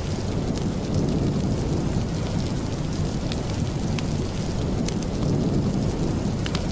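Steady heavy rain, a dense even hiss with a deep rumbling undertone, broken by a few scattered sharp ticks.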